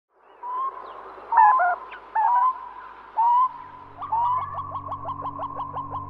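Bird calls: a few short whistled calls with sudden jumps in pitch, then from about four seconds in a quick run of repeated falling notes. A low steady music drone comes in about halfway through.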